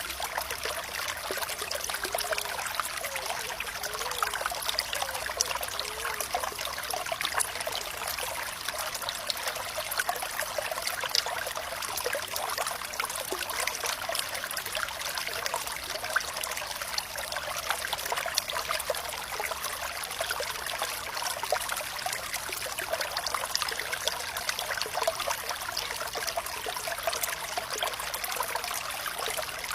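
Water running steadily in a shallow stream, an even trickling and bubbling flow with no other sounds.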